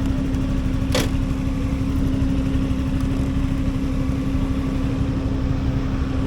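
Motor-vehicle engine running steadily at idle, a low rumble with a steady hum, and a single sharp click about a second in.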